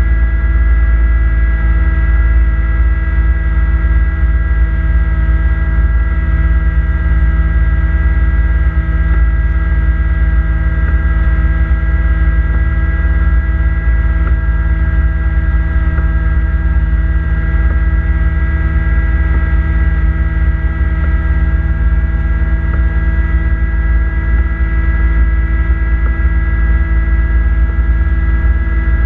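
Kubota B2650 compact tractor's three-cylinder diesel running steadily while driving its front-mounted snowblower: an even drone with a constant high whine over it, unchanging throughout.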